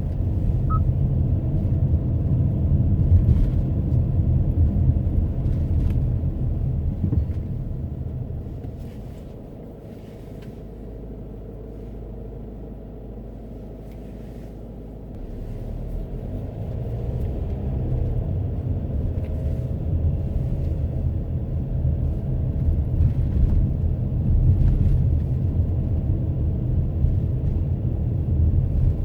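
Car on the move: low road and engine rumble that dies down about eight to ten seconds in to a quieter steady low hum for about five seconds, then builds again as the car speeds back up.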